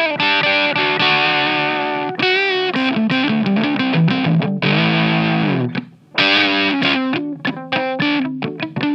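Electric guitar played through an MXR MC402 Boost/Overdrive pedal with its gain at 3 o'clock: distorted chords and a bent note, a long held chord, a brief stop about six seconds in, then short choppy notes.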